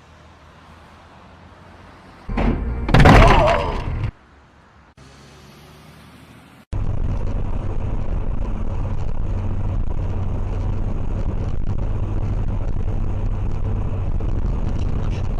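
A loud, clattering crash lasting about two seconds, starting a couple of seconds in. After a sudden cut, a heavy vehicle's engine runs with a steady low rumble.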